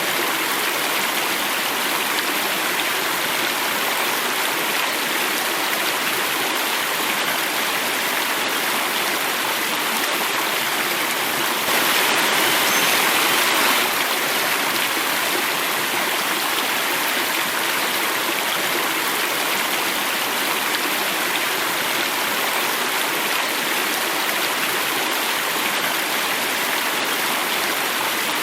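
Water running and falling over rocks in a stream, a steady rushing that swells briefly about halfway through.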